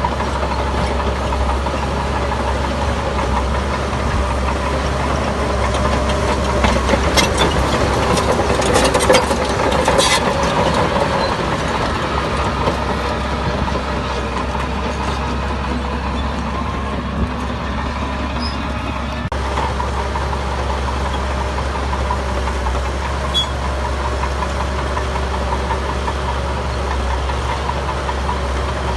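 Heavy diesel engine of earthmoving machinery running steadily, with a burst of metallic clanks and knocks about seven to ten seconds in.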